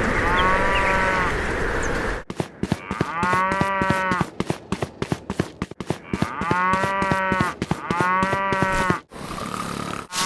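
A cow mooing four times, each moo about a second long and arching up and down in pitch. A steady hiss sits under the first moo, and from about two seconds in, many sharp clicks or knocks run between and over the moos.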